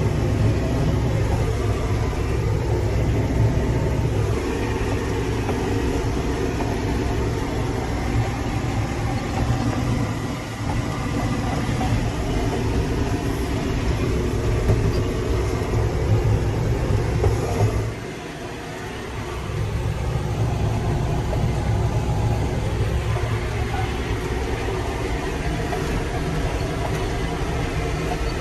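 Tractor engine running steadily under load while pulling a harrow, heard from the driver's seat, with a brief drop in the low rumble about two-thirds of the way through before it settles back.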